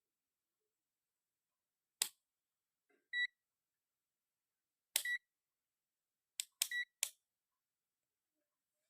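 Several sharp clicks, each but the first soon followed by a short, high electronic beep, three beeps in all, with silence between.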